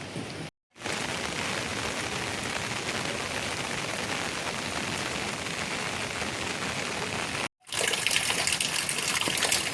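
Steady rain falling, with water gushing. The sound drops out twice, briefly, about half a second in and near the end, and is louder after the second break.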